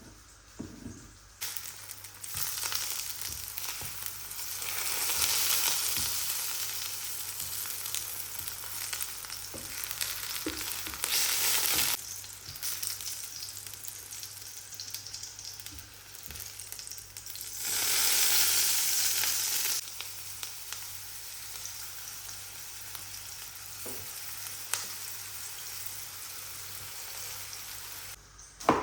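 Food sizzling as it fries in a pan, with scattered clicks. The sizzle swells louder several times, most strongly for a couple of seconds about two-thirds of the way through.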